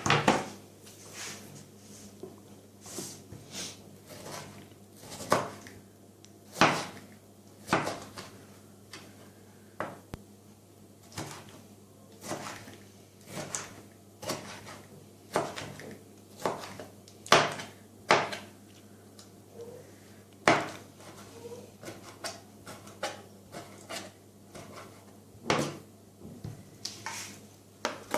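Kitchen handling noises: scattered knocks and clinks of dishes and utensils being set down and moved on a counter, irregular, about one every second or so.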